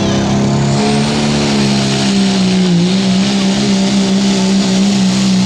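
Turbocharged diesel pulling truck running at high, steady rpm under load, with a high whistle rising in pitch over the first second. The engine note dips briefly about three seconds in.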